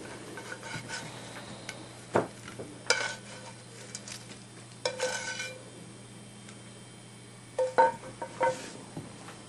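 A handful of separate clinks and knocks from hard objects being handled, some with a short ringing tone, over a steady low electrical hum.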